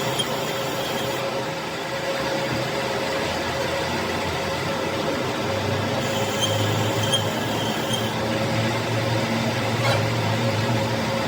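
Steady machine hum with a constant tone, its low hum growing stronger about halfway through, and a single brief click near the end.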